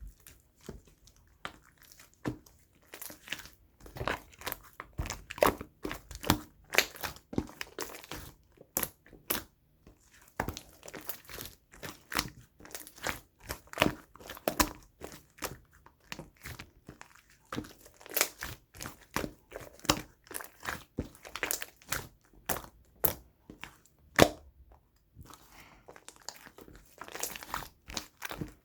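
Pink slime being squished and stretched by hand, giving a stream of irregular crackling clicks and pops, several a second, with brief pauses.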